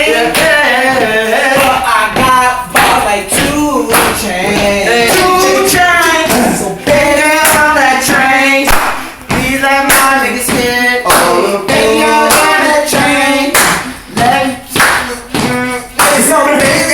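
A voice singing a melody over steady rhythmic hand claps, roughly one to two claps a second.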